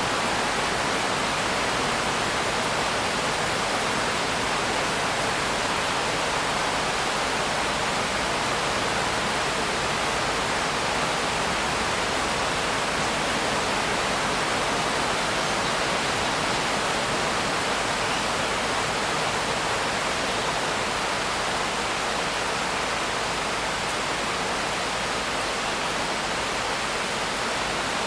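Steady heavy rain: an even, unbroken rushing hiss with no single drops, thunder or other events standing out.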